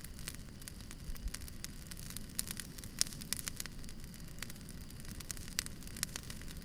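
Campfire crackling: irregular sharp pops and snaps over a low rumble of the burning wood.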